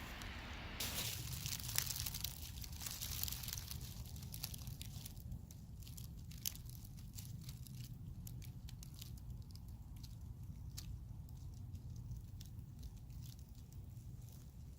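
Footsteps on a dry winter leaf-litter trail: faint, irregular crunching and crackling over a steady low rumble of wind on the microphone.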